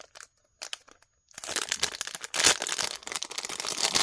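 Plastic bag crinkling and rustling as pieces of jewelry are rummaged out of it. The crinkling stops briefly just after the start and resumes about a second in.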